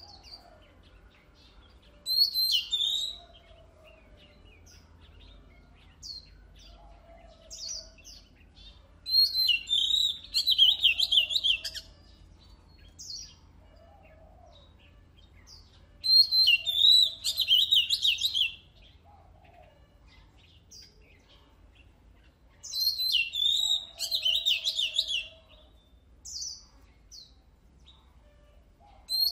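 Oriental magpie-robin singing: four loud bursts of rapid, varied high phrases a few seconds apart, with scattered single notes and soft lower notes in between.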